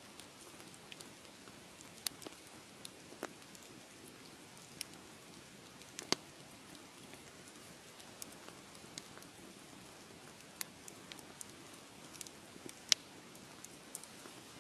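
Wood fire crackling: a soft steady hiss with irregular sharp pops scattered through it, the loudest about six seconds in and near the end.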